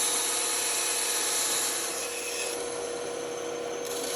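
Band saw running and cutting wood: a steady motor and blade sound with the rasp of the blade in the wood, a little quieter for the second half.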